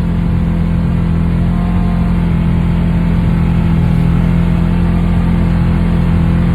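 Polaris Ranger 4-wheel-drive utility vehicle's engine running steadily as it drives slowly through deep snow, getting slightly louder through the stretch.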